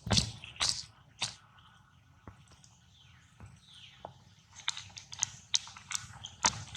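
Monkeys at close range making irregular short clicks and smacks, loudest near the start and clustered in the second half, with two faint falling squeaks around the middle.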